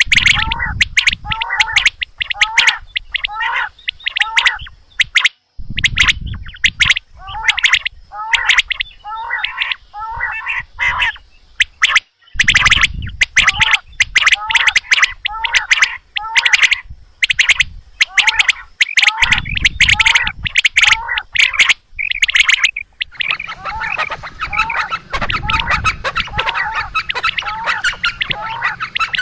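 Quail (batair) calling over and over: short, sharp notes repeated about twice a second, with clicks among them. It is a recorded call of the kind played as a lure in quail hunting.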